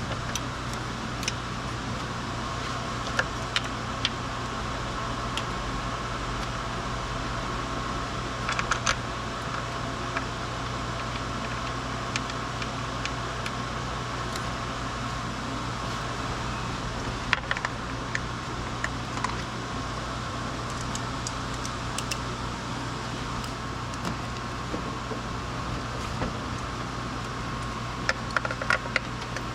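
Steady mechanical hum with a scattered handful of light clicks and taps.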